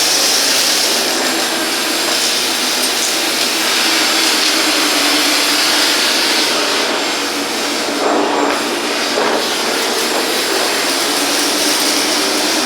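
Bosch Series 2 BGC05AAA2 bagless vacuum cleaner running at full suction: a loud, steady rush of air over the motor's hum, changing briefly about eight seconds in.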